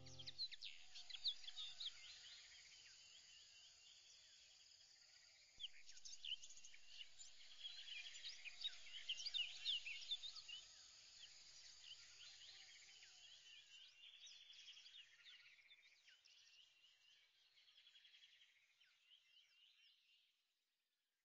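Faint chorus of birds chirping, many short calls overlapping, busiest a few seconds in and fading away near the end.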